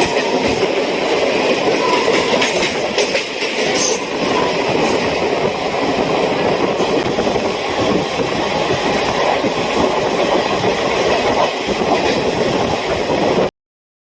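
Passenger train running on the rails: a steady rumble and rattle of wheels and coaches, with a faint clickety-clack. It cuts off suddenly near the end.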